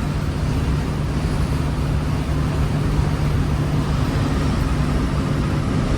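Steady engine drone and road noise heard from inside a moving truck's cab, with a constant low hum.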